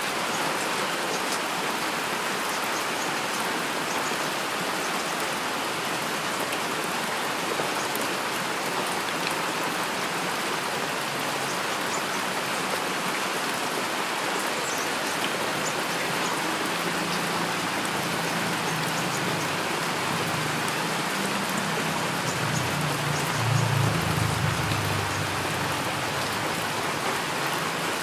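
Heavy rain falling steadily, with a low rumble of thunder building in the second half and loudest about four seconds before the end, then fading.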